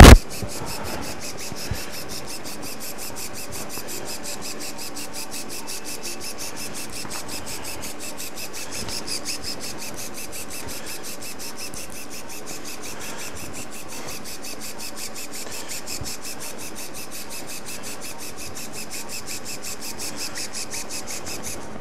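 Motorized arthroscopic shaver running steadily inside the knee, a rasping grind with a fast, even pulsing as it trims torn meniscus. A sharp click sounds at the very start.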